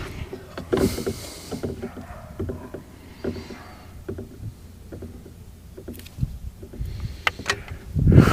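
Scattered light clicks, taps and rustles of hands handling and fitting the plastic and metal parts of a boat's remote-control box, with a short rustle about a second in.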